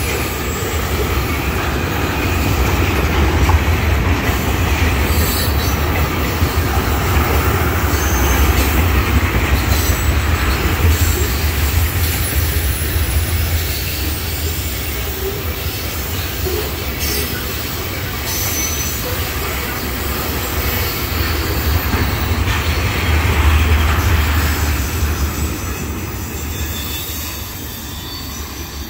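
Tank cars of a freight oil train rolling past: a steady rumble of steel wheels on the rails, with high wheel squeal at times. It fades somewhat near the end as the last cars pull away.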